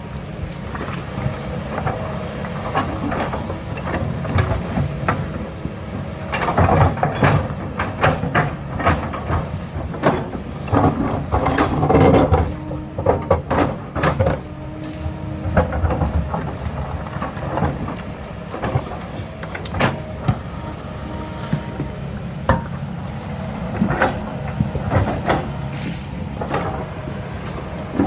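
Diesel earthmoving machine running steadily, with irregular clanks, knocks and scraping of rock and soil from about six seconds in, busiest around the middle.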